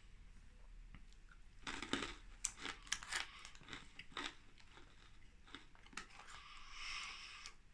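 A person chewing crunchy pretzel pieces with a hard outer shell. A quick run of loud crunches comes about two to four seconds in, then sparser, softer crunches.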